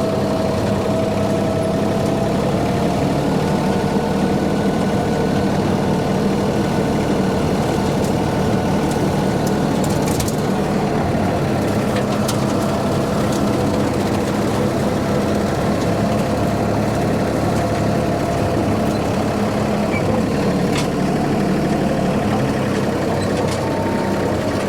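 Tractor engine running steadily while driving a brush hog rotary mower through weeds, with a few faint clicks over it.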